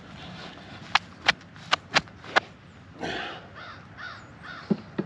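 Five sharp clicks in quick succession about a second in, then a bird's harsh calls, about four in a row, in the second half.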